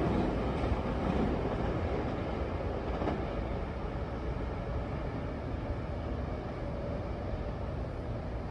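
Metro-North electric multiple-unit commuter train running along the track, a steady rail rumble that slowly fades.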